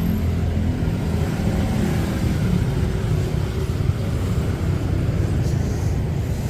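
Steady rumble of a moving road vehicle, with road and wind noise heaviest in the low range and a faint engine hum that fades out just under a second in.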